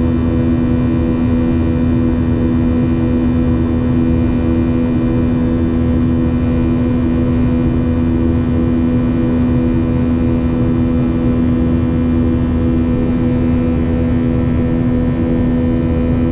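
Boeing 737-800 cabin noise from a window seat: a loud, steady drone of the jet engines and airflow, with a constant hum over a low rumble.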